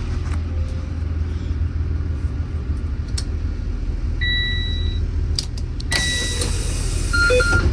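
School bus diesel engine idling with a steady low rumble. A beep sounds a little after four seconds in and again briefly about six seconds in, followed by a few short chirps near the end, while a hiss comes up for the last couple of seconds.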